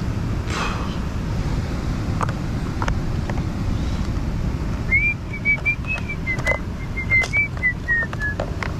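A person whistling a short tune of steady, separate notes, starting about halfway through and trailing down in pitch at the end. Underneath is a steady low rumble, with a few light clicks.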